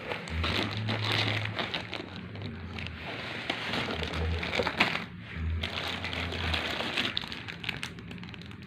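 Plastic packaging crinkling and rustling as a parcel's contents are unpacked and handled, with scattered sharp clicks and knocks.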